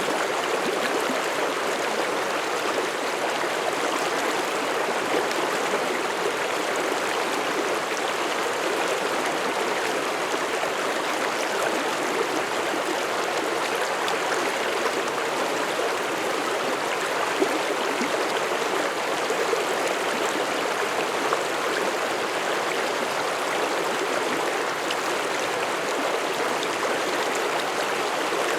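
Mountain stream flowing over rocks: a steady rush of water with gurgling and splashing, unchanging in level.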